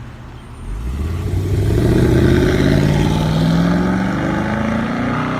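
Police car's V8 engine accelerating hard. It picks up about a second in, and its note rises steadily in one long pull.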